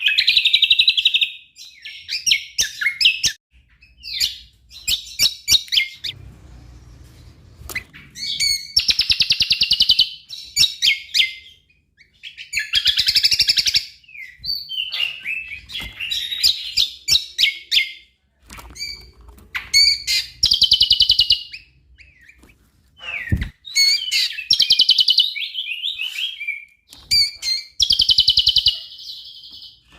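Greater green leafbird (cucak kombo) singing a loud, varied song in phrases of a second or two separated by short pauses, with rapid trills among them.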